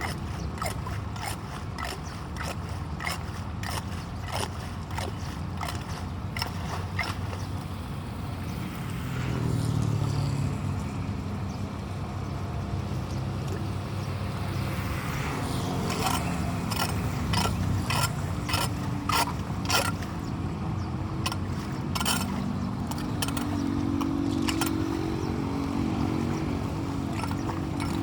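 Rain and water running on a flooded street, with frequent sharp knocks and scrapes from debris being cleared off a drain grate. A low hum swells about ten seconds in and again near the end.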